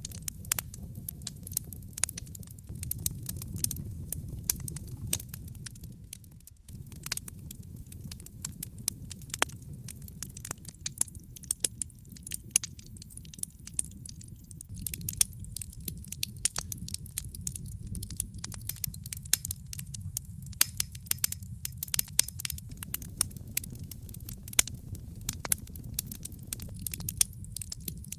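Wood campfire crackling, with frequent sharp pops and snaps of burning wood over a low, steady rumble of the flames.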